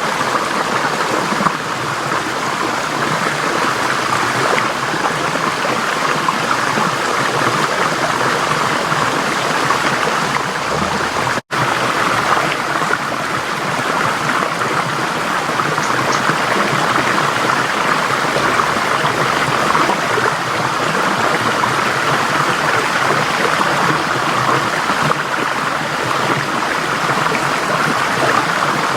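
A forest stream flowing steadily over rocks, a dense, even rush of water. About eleven seconds in, the sound drops out for an instant.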